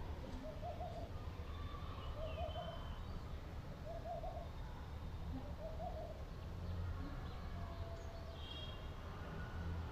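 A bird calling with a short, single-pitched note repeated about every second and a half to two seconds, four times, then falling silent; fainter high chirps from another bird come near the end.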